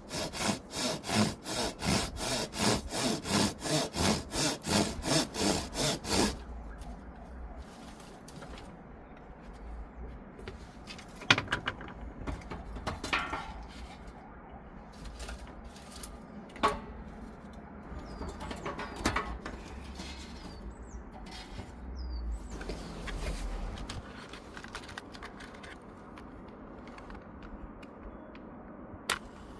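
A hand tool worked back and forth on wood in quick regular strokes, about three a second, for the first six seconds. After that come quieter scattered knocks and clicks of handling.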